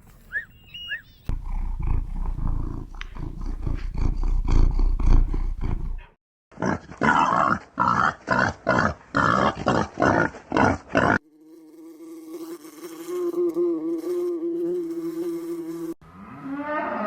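A run of different animal calls cut one after another. It opens with a few short chirps, then comes a loud rough stretch, then a train of calls about two a second. A steady droning tone follows, and a rising call comes near the end.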